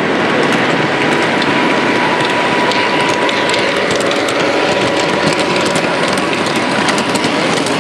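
Model train running on a layout's track: a steady mechanical whirring with a thin, even whine and many rapid small clicks.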